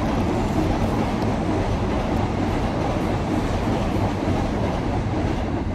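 Loud, steady rumbling noise with no clear rhythm or tone.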